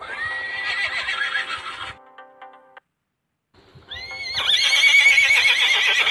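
Horse whinnying twice: a first call about two seconds long, then after a short gap a louder, longer whinny with a quavering pitch starting about four seconds in.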